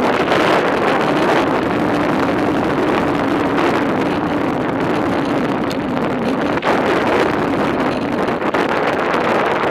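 Wind rushing over the microphone of a camera on a moving bicycle, a loud, steady rush with a low hum beneath it.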